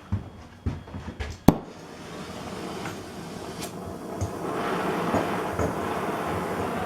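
A few sharp metallic knocks, then a gas torch flame burning with a steady rushing hiss that builds up from about two seconds in. The flame is heating a steel drill press sleeve so that it expands.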